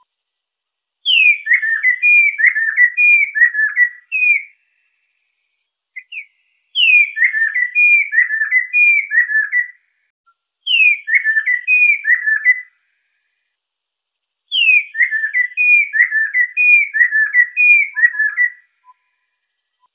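Lesser necklaced laughingthrush singing: four loud whistled phrases, starting about a second in, at about six and a half seconds, near eleven seconds and near the end, each opening with a high note sliding down into a quick string of five to seven looping whistles, with short silences between phrases.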